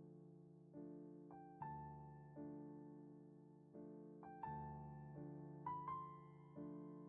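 Slow, soft solo piano music: gentle chords struck about once a second and left to ring and fade, with single higher melody notes over them.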